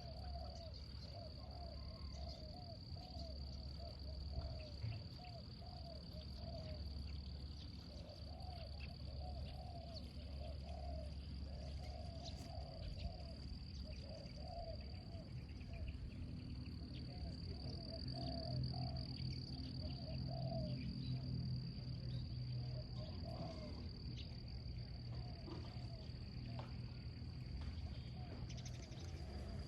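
Outdoor nature ambience: insects keep up a steady high-pitched trill, while an animal repeats a short lower call about twice a second in runs, over a low rumble.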